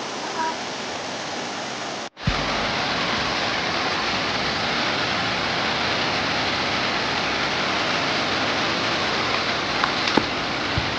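Steady rushing of a waterfall, cut off by a brief dropout about two seconds in and then resuming slightly louder.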